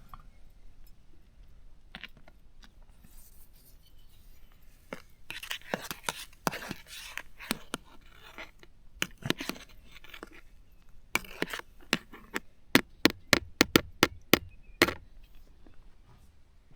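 Scraping and rustling for a few seconds, then a quick run of about a dozen sharp knocks or taps lasting some four seconds, the loudest near the end.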